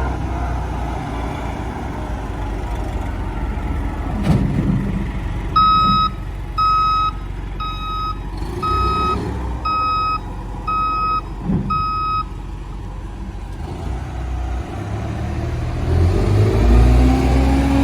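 Wagner MT2000 underground haul truck's diesel engine running, with its backup alarm beeping seven times, about once a second, as it reverses. A couple of short knocks come through, and near the end the engine revs up.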